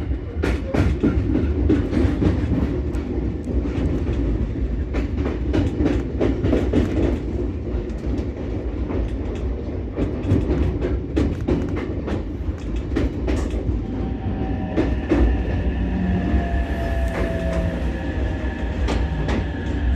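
Ichibata Electric Railway 7000-series electric railcar running on the track: a steady low rumble with repeated clacks of the wheels over rail joints. In the last few seconds a whine from the drive joins in, one tone sliding down a little.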